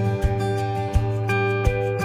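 Instrumental background music led by plucked guitar, with notes struck at a steady pace.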